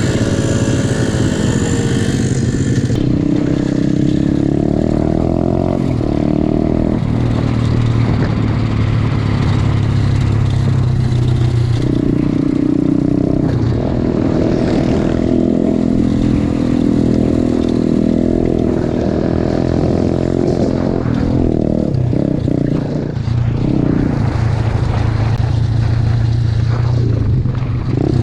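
Small single-cylinder 125cc pit bike engine running under way, its pitch rising and falling as the throttle and gears change, with rattling and clatter from the bike over rough ground.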